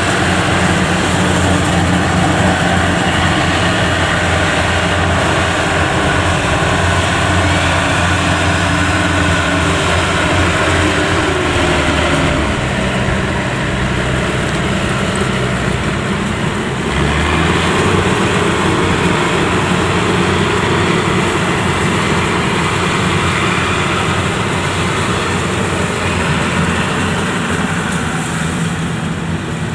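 Yanmar YH85 combine harvester's diesel engine running steadily while working, with its note shifting about 12 seconds in and again about 17 seconds in.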